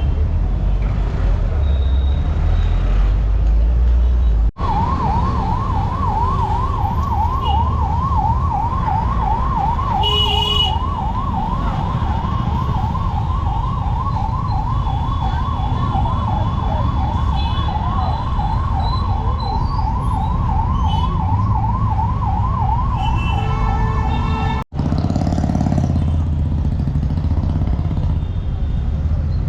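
Emergency vehicle siren wailing rapidly up and down in pitch, about two sweeps a second, over steady street traffic rumble. It starts abruptly a few seconds in and cuts off abruptly near the end. A couple of short horn honks sound over it.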